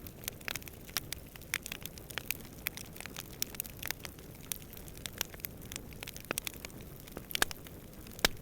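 Campfire crackling: irregular sharp snaps and pops of burning wood over a steady low rumble of flame and distant wind.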